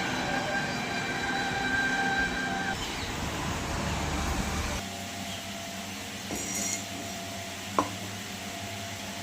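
Small electric motor, likely the mixer grinder's, running with a steady whine that stops about three seconds in, followed by a rumble that dies away and a low steady hum. A single sharp click comes near the end.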